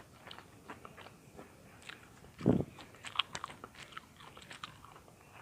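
Close-miked chewing of crunchy butter-toasted bread cubes: a run of small crisp crunches and mouth clicks, with a louder bite about two and a half seconds in.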